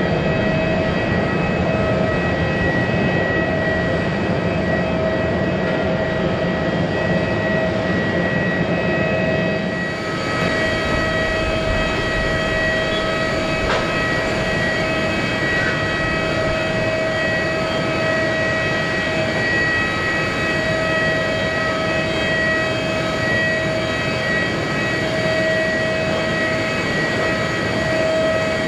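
Airbus A321neo's CFM LEAP-1A turbofan engines running with a steady whine of several high tones over a noisy rush. A lower rumble drops away about ten seconds in.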